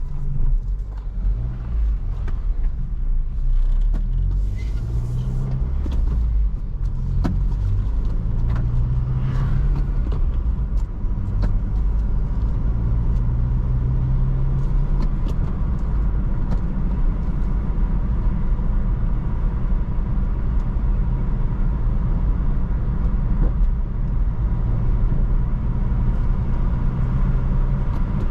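A 2004 Toyota Corolla being driven, its engine running over low road rumble. The engine note shifts up and down several times in the first fifteen seconds or so, then runs steadier.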